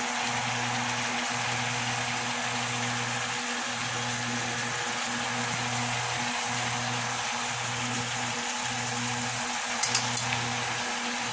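Chicken pieces sizzling steadily in hot butter in a pot. A few quick clicks of metal tongs against the pot come near the end.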